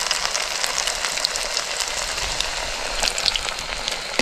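Potato bread sizzling steadily as it fries in hot oil in a pan, with scattered small crackling pops.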